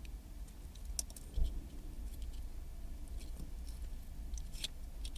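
Plastic wiring-harness connectors clicking and rattling as they are handled and pushed onto a car's factory stereo plug, with one louder knock about a second and a half in.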